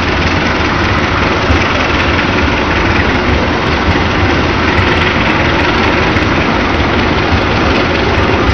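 A locomotive-hauled passenger train running past, with a loud, steady rumble of engine and running noise.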